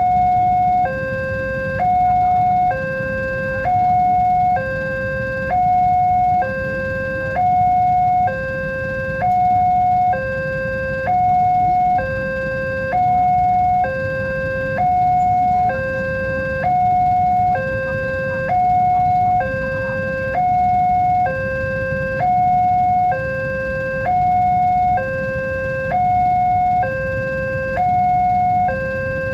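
Indonesian railway level-crossing warning alarm sounding its two-tone hi-lo signal, a higher and a lower electronic tone alternating about once a second, warning that a train is approaching and the barrier is closing. A steady low rumble runs beneath it.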